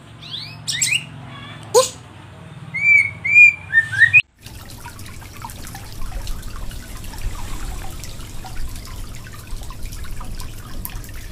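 White-rumped shama calling in its cage: a few rising whistled notes, then a quick run of short arched chirps about three seconds in. After an abrupt cut, a steady water noise with a low hum from an aquarium.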